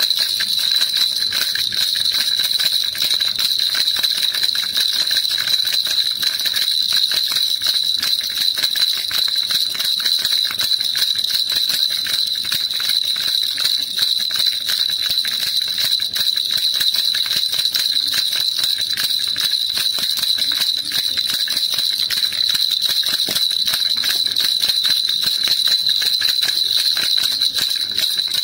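Baby rattle shaken fast and without pause, a dense jingling rattle with a steady high ringing note.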